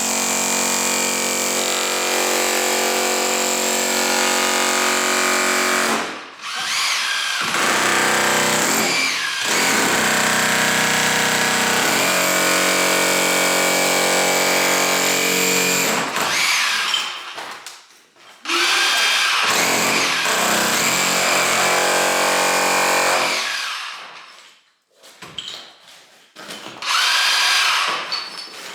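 Electric rotary hammer breaking up a masonry wall, running steadily in several long bursts with short pauses between them.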